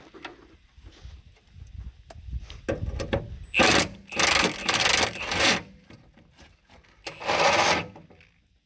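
Milwaukee M18 Fuel half-inch impact wrench running in four short bursts, its hammer mechanism rattling on a rusted frame bolt. The nut is spinning on the bolt rather than the bolt breaking.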